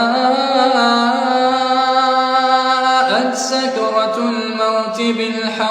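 A man's voice reciting the Quran in melodic tajweed style, drawing out a long held note. A second long note begins about three seconds in.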